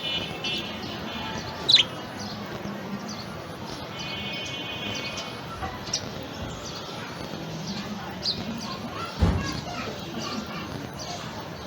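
Pet budgerigar chirping and chattering: short sharp chirps mixed with buzzy warbling runs, with one loud chirp about two seconds in. A dull low thump comes about nine seconds in.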